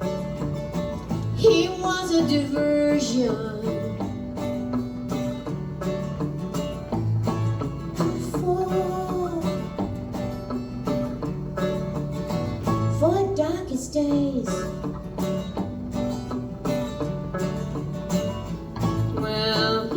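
A live song: a voice sings phrases over steadily strummed acoustic guitar.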